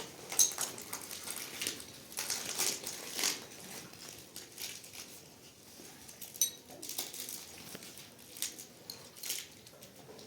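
Irregular light clinks, scrapes and crunches of dishes and cutlery, with a sharper clink about half a second in and another past the middle.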